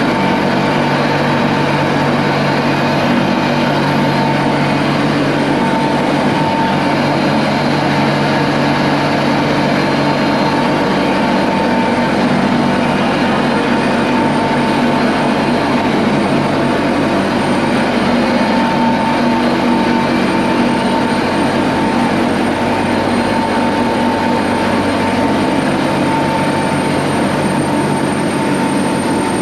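Ship's engine-room machinery running: a loud, steady drone with a constant whine and low hum over dense mechanical noise.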